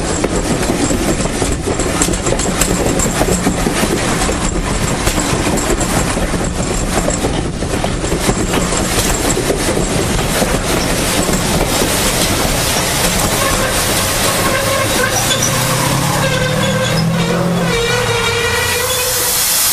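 A heritage railway train running on the line, its wheels clicking over the rail joints. Near the end, a pitched squeal rises out of the running noise. A loud hiss starts right at the close.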